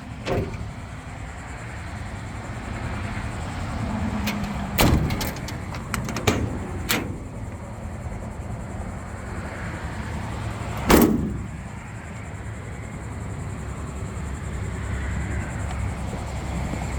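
Steady low vehicle rumble, with several sharp knocks and clicks scattered through it; the loudest comes about eleven seconds in.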